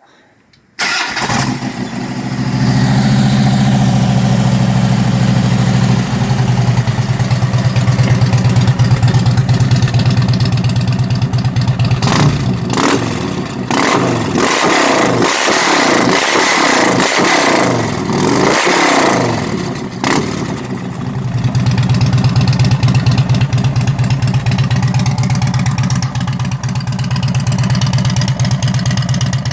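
2009 Harley-Davidson Ultra Classic's V-twin, fitted with a Cobra exhaust and a stage 1 setup, starting about a second in and settling into a lumpy idle, revved several times in the middle, then idling again. Recorded on a phone.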